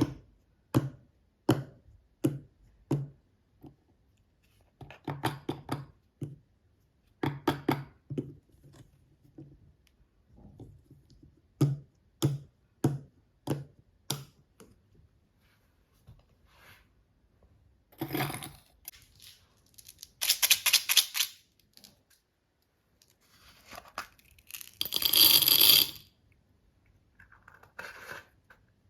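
Small toy pieces and their packaging handled close to the microphone. First comes a run of sharp clicks and taps, about one every half second with pauses between. Later come several crinkling, tearing bursts of packaging lasting a second or two each, the loudest near the end.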